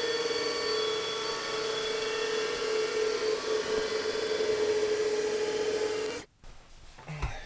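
Air-conditioner blower fan running, blowing air through a hose with a steady rushing hiss and a single steady whine; it cuts off abruptly about six seconds in, followed by a few light knocks near the end.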